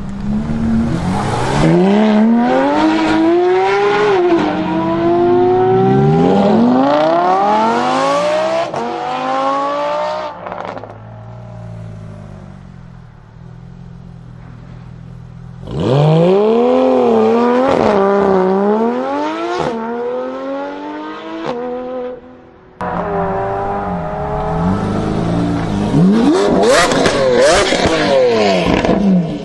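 Supercar engines accelerating hard: the exhaust note climbs in pitch, drops back at each upshift and climbs again, in several loud pulls. About ten seconds in it falls back to a quieter low drone for some seconds, and near the end the sound cuts abruptly to another loud, rising run.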